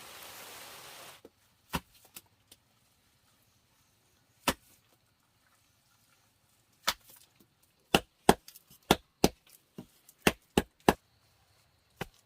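Rain hiss that cuts off about a second in. Then a blade chops into wood: a few spaced strokes, followed by a quicker run of about eight chops.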